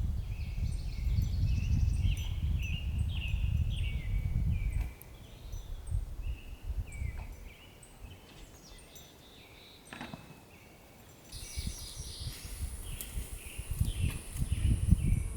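Small songbirds chirping in short repeated phrases, over a low rumble that drops away about five seconds in and returns near the end. A thin steady high buzz, like an insect, joins about eleven seconds in.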